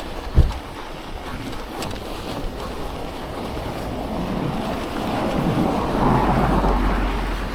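Wind rushing over a chest-mounted action camera's microphone on a bicycle ridden fast, at about 24 km/h, swelling louder about five to seven seconds in. A single sharp knock about half a second in.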